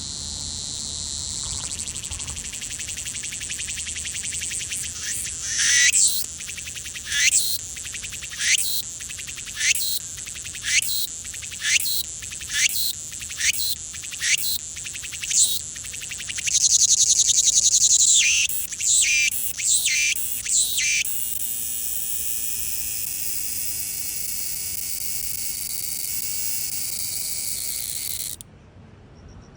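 Cicadas singing. A steady high buzz gives way about five seconds in to a run of loud swelling calls, about one a second, with one long loud stretch in the middle. The song then settles back to a steady buzz that cuts off suddenly near the end.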